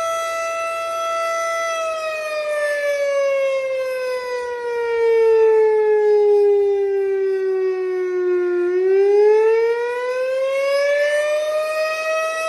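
Fire truck siren in a slow wail. It holds a steady pitch for about two seconds, falls slowly over about seven seconds, then rises back to its starting pitch over about three seconds.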